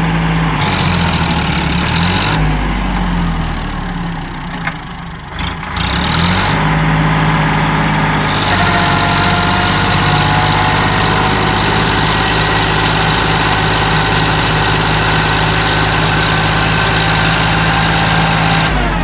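Sonalika DI 734 tractor's diesel engine working hard to pull the stuck tractor free. Its pitch rises and falls a few times, with a couple of short clicks about five seconds in, then it holds steady at high revs.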